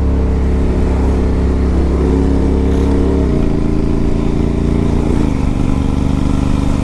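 Honda CTX700's 670 cc parallel-twin engine running under acceleration while its automatic transmission shifts up on its own. The engine note steps down in pitch about three seconds in and again about five seconds in, with no break in the sound, the mark of a smooth upshift.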